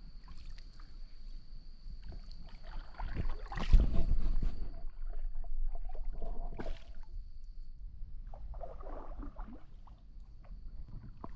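Canoe being paddled: irregular paddle splashes and knocks on the hull, loudest about four seconds in, over a thin steady high tone.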